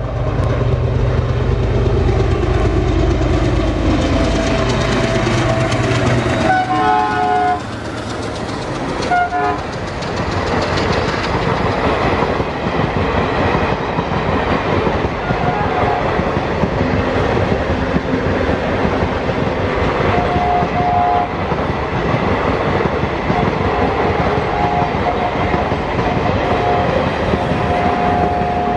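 A diesel-hauled passenger train passes close by. The head end's diesel engine runs loud, its hum falling in pitch as it goes past. The horn sounds about seven seconds in, with a short toot a couple of seconds later. Then the coaches rumble and clatter past on the rails, with steady clickety-clack of the wheels.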